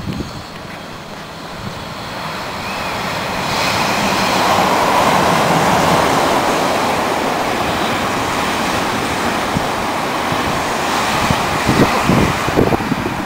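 Odakyu electric commuter train running past close by: a steady rushing rumble of wheels on rails that builds over the first few seconds and holds. A few heavier thuds come near the end.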